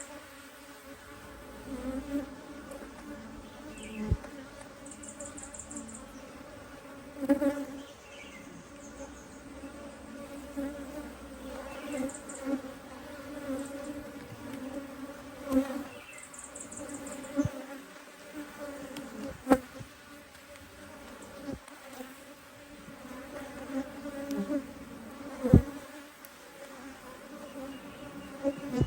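Honey bee colony buzzing in an opened hive, a steady hum throughout. A few sharp knocks are heard along the way.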